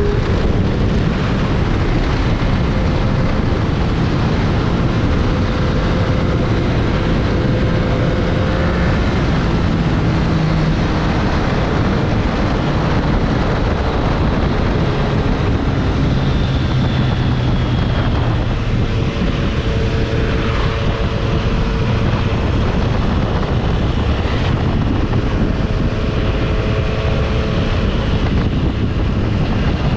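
Triumph Street Triple 765 RS's three-cylinder engine running under way, its note rising and falling with the throttle, over a steady rush of wind noise.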